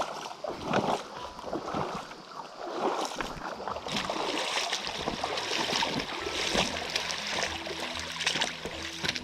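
Flowing water with irregular splashing, rustling and knocks. Soft background music with held notes comes in during the last couple of seconds.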